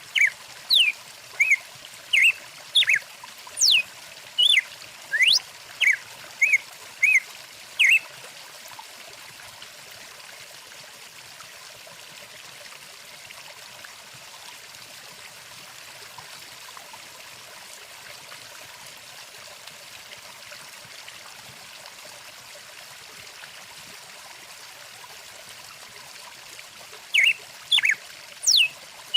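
Flowing stream running steadily, with a songbird's short, sharp chirps repeating about one and a half times a second for the first several seconds, then stopping, and starting again near the end.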